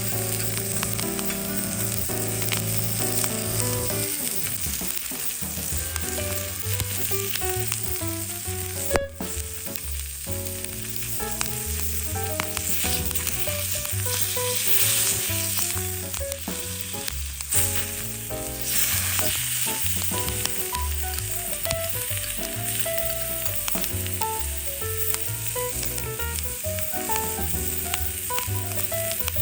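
Steady sizzling, as of food frying in a pan, over background music of short melodic notes.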